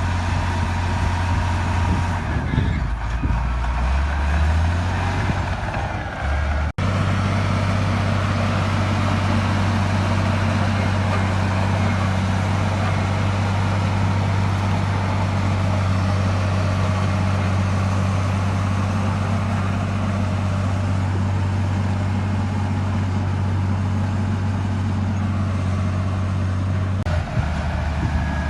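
Heavy diesel engine of a bulldozer running loud and steady. Its pitch sags and wavers around three to five seconds in, then it cuts out for an instant about seven seconds in before carrying on evenly.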